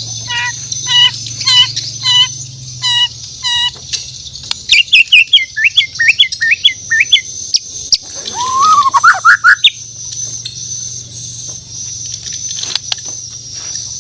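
Bornean murai batu (shama) singing: a run of about seven identical clear whistled notes, then a quick string of sweeping notes, then a loud run of rising notes about eight seconds in, followed by a few short clicks. A steady high-pitched whine sits underneath throughout.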